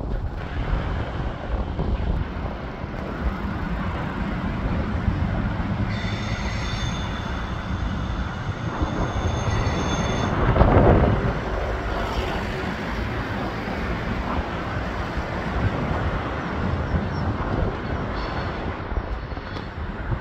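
A Hitachi Rock ETR 421 double-deck electric multiple unit passing slowly, with the steady rumble of its wheels on the track. Several high steady tones, a squeal, ring for about four seconds midway, and the sound swells briefly just after.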